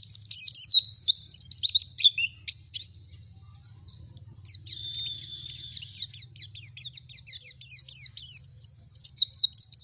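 White-eye (pleci) singing a fast, twittering song of quick downslurred notes. It drops to quieter calls about three seconds in and builds back up toward the end.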